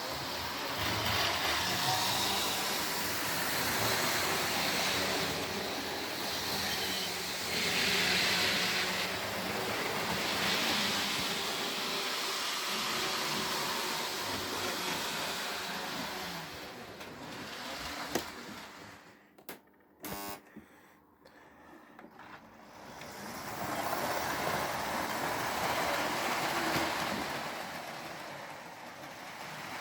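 Model trains running on a layout: a steady rumble of wheels and motors that swells and fades as trains pass, dropping away briefly about two-thirds of the way through with a couple of sharp clicks.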